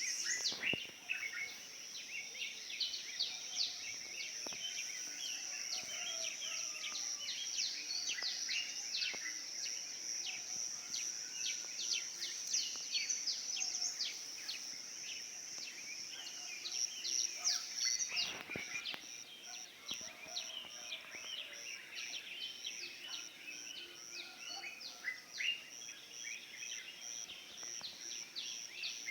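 Morning chorus of many wild birds chirping and calling over one another, over a steady high-pitched trill. About two-thirds of the way through, the trill breaks into evenly spaced pulses.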